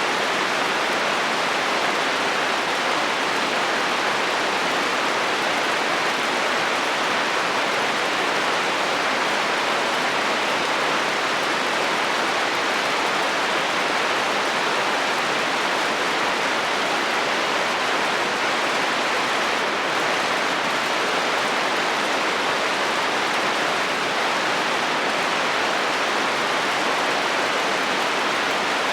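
Heavy rain falling steadily on a metal roof: an even, unbroken hiss.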